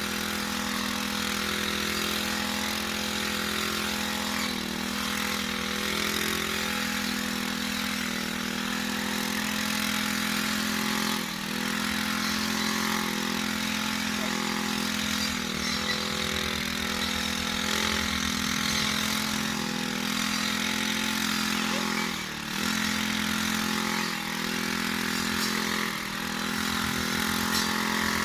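An engine running steadily, its pitch dipping briefly now and then.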